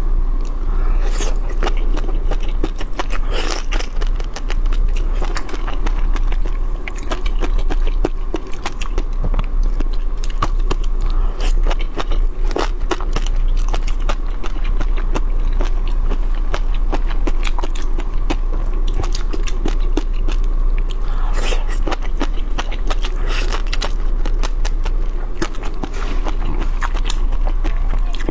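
Close-miked chewing and biting of shrimp with crunchy cashew chili sauce and fish roe: a dense, steady stream of crackly crunching clicks, with a steady low hum underneath.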